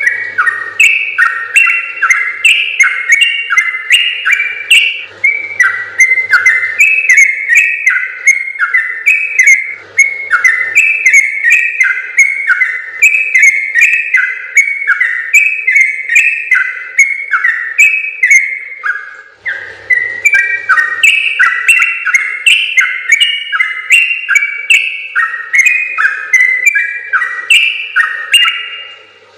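Yellow-vented bulbul (trucukan) singing a long, fast, unbroken run of short bubbling whistled notes that jump up and down in pitch, with a brief pause about two-thirds of the way through.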